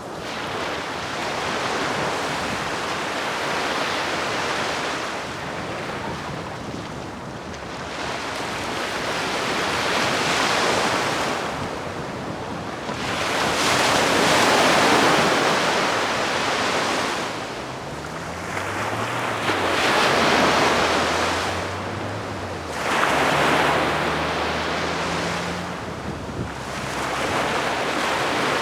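Calm sea waves washing onto the shore, each wave swelling and falling away every few seconds.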